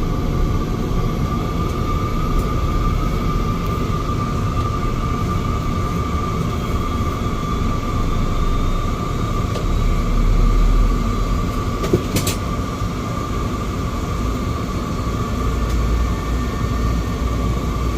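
Cabin noise of a Cessna 208 Caravan's single Pratt & Whitney PT6A turboprop engine running steadily, a deep rumble under a steady whine. A single sharp click about two-thirds of the way through.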